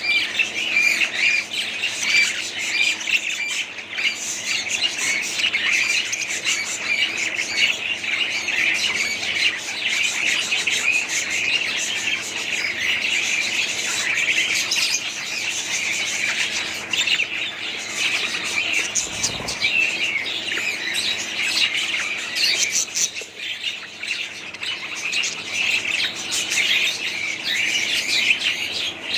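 A flock of budgerigars chattering and chirping continuously, many calls overlapping at once.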